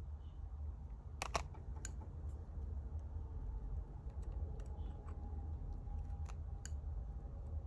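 Small sharp clicks and taps from handling the parts and tools of an iPod Classic during disassembly: a loud close pair a little over a second in, then scattered lighter clicks, over a steady low hum.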